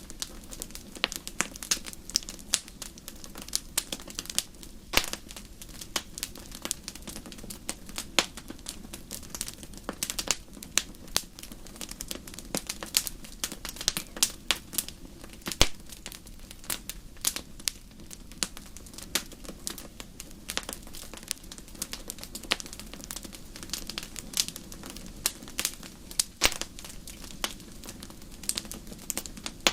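Campfire crackling: irregular sharp pops and snaps, several a second, over a steady low background.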